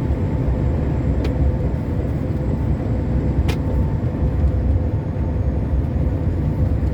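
Steady low rumble of a heavy truck's engine and tyres on the highway, heard from inside the cab, with two faint ticks.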